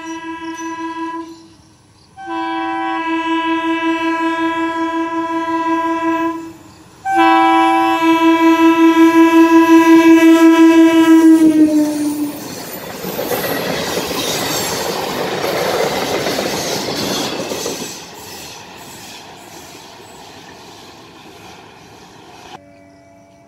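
EMU electric multiple-unit train sounding its horn in three blasts, a short one and then two long ones, the last and loudest sliding down in pitch as the train reaches the camera. The train then rolls past with loud wheel and rail noise that fades as it moves away.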